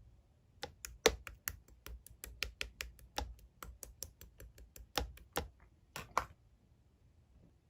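A quick, uneven run of sharp taps or clicks, about four a second, which stops a little after six seconds in.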